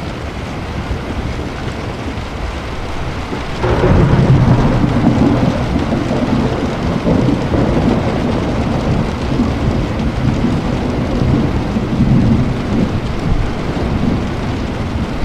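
Steady rain with rolling thunder: a long, low rumble comes in suddenly a little under four seconds in and swells and fades over the next ten seconds.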